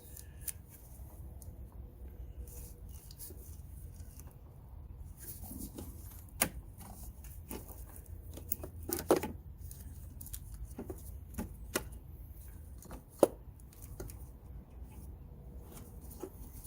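Scattered sharp clicks and knocks, a handful spread over the stretch, from hands working plastic electrical connectors and parts in a car's engine bay, over a steady low hum.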